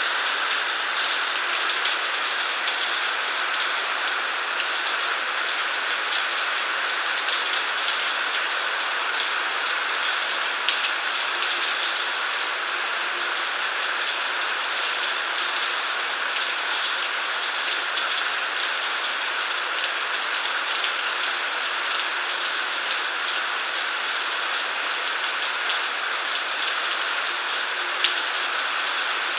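Steady rain falling: an even hiss with scattered sharper taps of single drops, one louder tap near the end.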